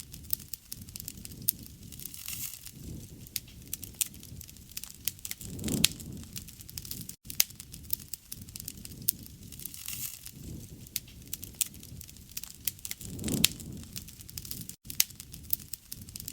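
Wood bonfire crackling, with frequent sharp snaps and pops over a low rush of flames that swells about six seconds in and again later.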